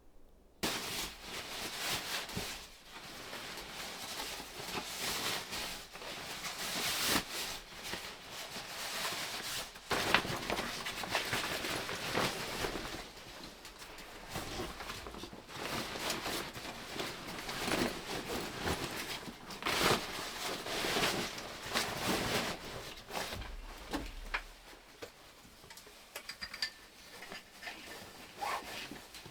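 Close, irregular rustling and handling noise with many small clicks and knocks.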